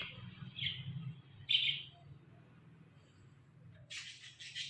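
Ringneck parrot giving two short high chirps, then a harsher, noisy call near the end, over a low steady hum.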